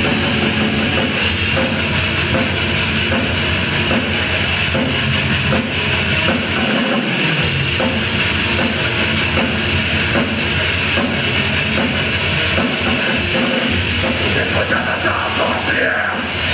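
Rock band playing a heavy rock number, with a drum kit keeping a steady beat; loud and continuous.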